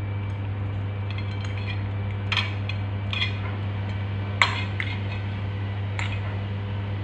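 A utensil clinking against a pan or bowl four or five times while the noodles are mixed, the clink about halfway through the loudest, over a steady low hum.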